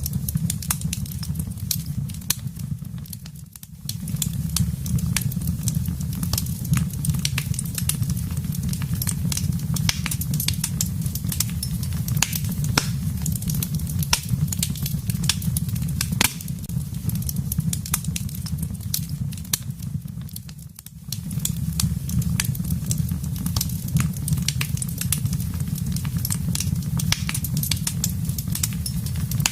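Wood fire burning in a fireplace: a steady low rumble of flame with frequent sharp crackles and pops from the burning logs. The sound dips briefly and comes back twice, about three seconds in and again about twenty-one seconds in.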